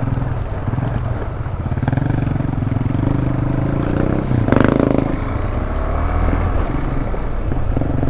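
Single-cylinder adventure motorcycle engine running in a low gear on a slow trail ride, its revs rising and falling with the throttle, with a short louder burst about halfway through.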